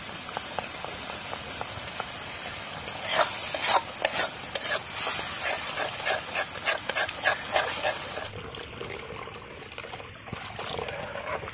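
Spiced masala sizzling in a steel kadhai while a metal spatula stirs and scrapes it in a run of short strokes. Near the end water is poured in and the sizzling dies down.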